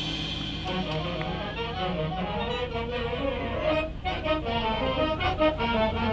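High school marching band playing a soft passage of held, reedy notes with a moving melody.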